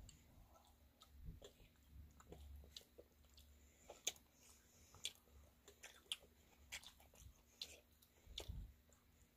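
Faint chewing of juicy rambutan fruit, with scattered wet mouth clicks and smacks, the sharpest about four seconds in.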